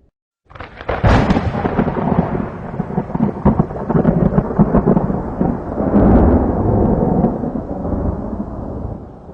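Thunder: a sudden crack about half a second in, then a long rolling rumble with crackling that eases off near the end.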